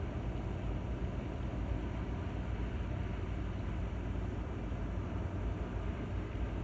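Steady low drone of a cargo ship's engine underway, a constant rumble with a faint hum and no change in pitch.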